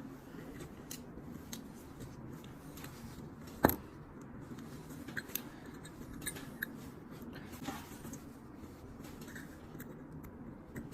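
Small scattered clicks and light handling noises of a metal petrol lighter being worked on by hand, with one sharp tap nearly four seconds in, over a low steady hum.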